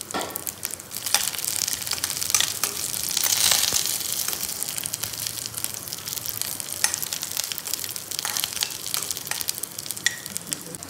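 Almonds, cashews and raisins sizzling as they roast in hot oil in a stainless steel kadhai, with a slotted metal spoon stirring them and clicking and scraping against the pan. The sizzle swells loudest about three seconds in.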